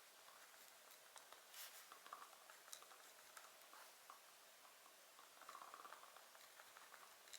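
Faint wood fire crackling in a fireplace: soft hiss with scattered irregular pops and snaps.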